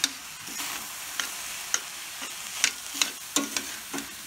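Chicken-and-vegetable lumpia filling sizzling as it is sautéed in a pan to cook the vegetables. A metal spoon stirring it clinks and scrapes sharply against the pan about ten times, several of them in quick succession around three seconds in.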